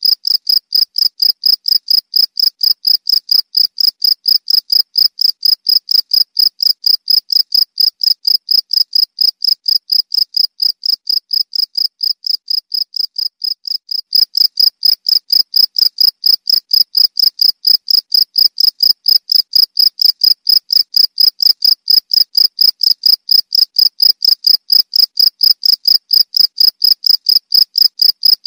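Cricket chirping in a fast, even train of high chirps, about five a second. The chirps fade a little past the middle, then come back at full strength suddenly.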